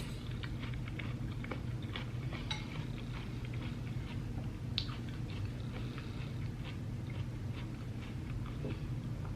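Quiet chewing with scattered small clicking mouth sounds, over a steady low hum.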